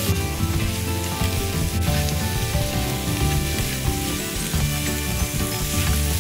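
Shrimp, vegetables and noodles sizzling in a hot pan while they are tossed with tongs, a steady frying hiss.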